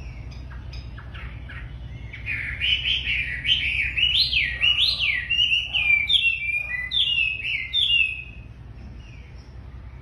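A wambi, a songbird kept in a cage, singing a loud run of quick rising and falling whistled notes from about two seconds in to about eight seconds in, with softer chirps before and after. A steady low hum runs underneath.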